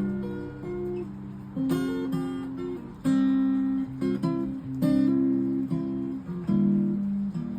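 Acoustic guitar playing an instrumental introduction: chords struck every half second to a second and left to ring over a sustained bass note.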